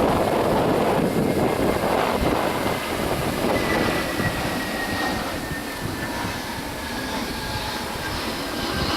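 Jet airliner's engines passing, a broad rush of jet noise with a thin turbine whine that slowly falls in pitch as the aircraft moves past, easing off slightly toward the end.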